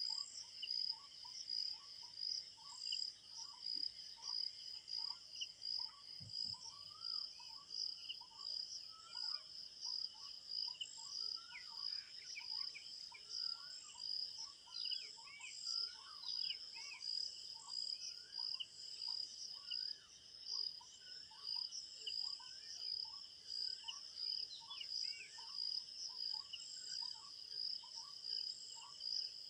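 Crickets chirping in a steady, fast-pulsing chorus, with birds calling over it in short, repeated chirps that grow busier about twelve seconds in.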